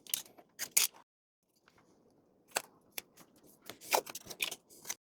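Scissors cutting masking tape: scattered short snips and crackles, thickest in a cluster near the end.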